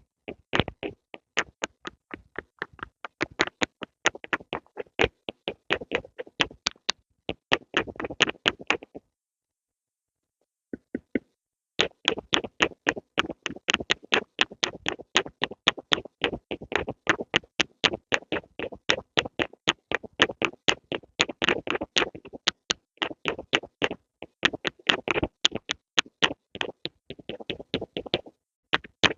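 Pencil tapping rapidly on a hard surface, about five sharp taps a second, stopping for nearly three seconds about a third of the way in before carrying on.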